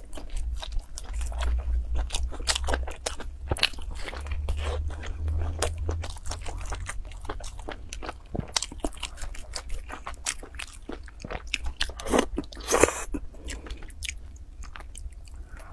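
Close-miked chewing of a crusty baked bun: crunching with many small wet mouth clicks, and a brief louder rustle about three-quarters of the way through.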